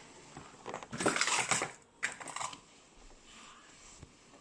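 Quick clicking and rustling of hands working at something small, in a dense burst about a second in and a shorter one just after two seconds.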